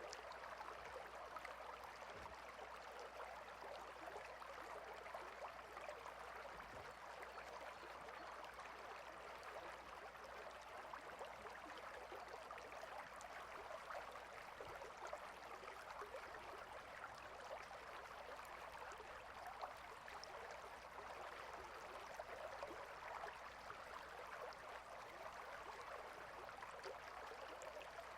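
Water stream flowing steadily: a faint, even rushing with tiny splashes.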